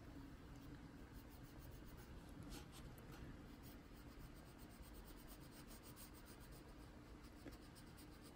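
Faint scratching of a white Prismacolor colored pencil being rubbed back and forth on paper while colouring, with a few slightly louder strokes a few seconds in.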